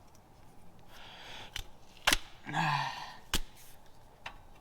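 Gorilla Tape being pulled off the roll in two short rips, with a few sharp clicks and knocks in between.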